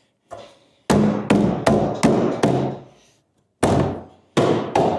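Ringing blows on a Land Rover Series 3 aluminium rear tub panel, knocking it into place: a quick run of five strikes, a pause, then three more near the end, each ringing briefly.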